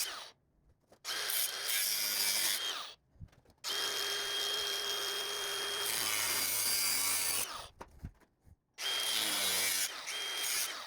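Angle grinder with a small 4-inch cutting disc cutting into steel: three runs of loud grinding with a steady high motor whine, broken by short pauses.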